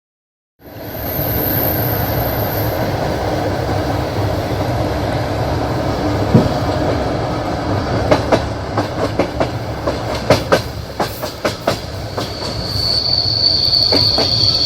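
Passenger train carriage running over the rails, heard from the carriage window: a steady rumble that starts about half a second in, a run of wheel clacks over rail joints in the middle, and a high steady wheel squeal near the end.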